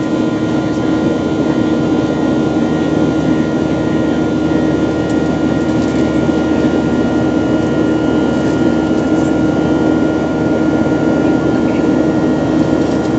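Passenger jet's engine and airflow noise heard inside the cabin: a loud, steady drone with a few held tones running through it, unchanging throughout.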